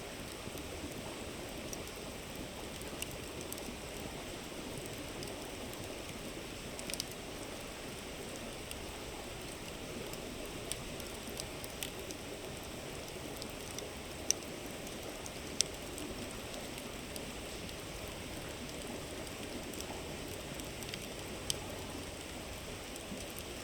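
Steady rushing murmur of a flowing river, with a wood campfire crackling over it in scattered sharp pops, two of them louder about two thirds of the way through.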